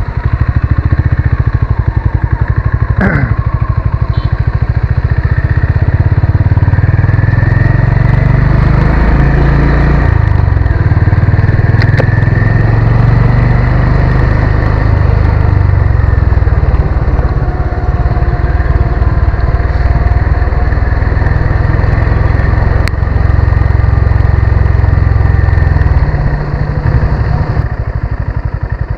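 Honda CB350 RS's single-cylinder engine running steadily under way as the motorcycle is ridden, picking up as it pulls away at the start and easing off near the end.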